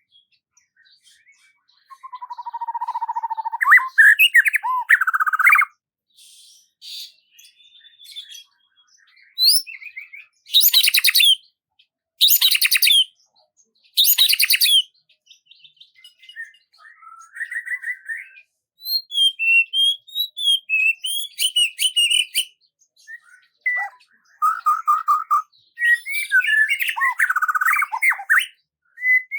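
Songbirds singing: separate phrases of chirps, rapid trills and short whistles, with brief pauses between them and no background noise.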